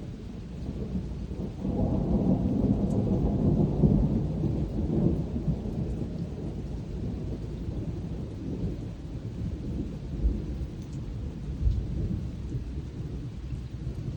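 Thunder rumbling, swelling about a second and a half in and rolling on for several seconds as it slowly eases, over steady rain.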